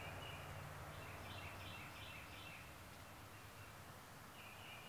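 Quiet outdoor ambience with a bird calling three times in short runs of quick repeated high notes: at the start, around a second and a half in, and near the end. A faint steady low hum lies underneath.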